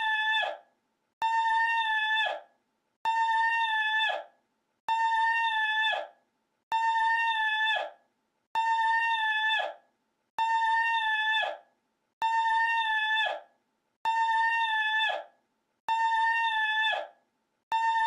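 The same short, high, steady cry-like call looped over and over, about every 1.8 seconds, each call held about a second and cutting off abruptly.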